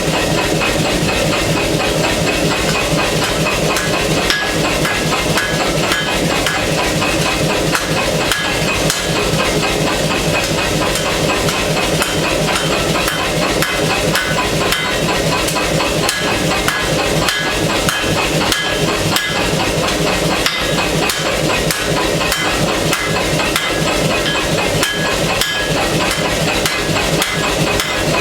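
Repeated hammer blows on hot steel at an anvil during forging, at an uneven pace, over a steady mechanical hiss from the forge.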